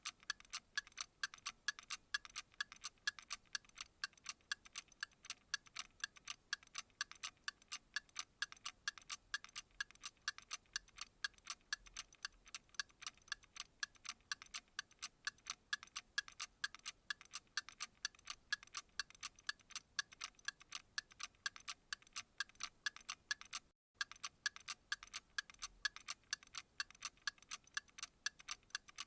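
Clock ticking: an even, quick train of sharp, bright ticks. The sound drops out completely for a moment a few seconds before the end.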